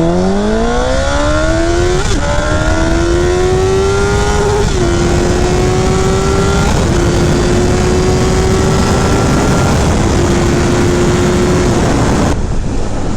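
Sport bike engine accelerating hard at full throttle, its pitch climbing steeply with quick upshifts about 2, 5 and 7 seconds in. It then holds a steady high pitch under heavy wind rush, and the engine note drops away near the end.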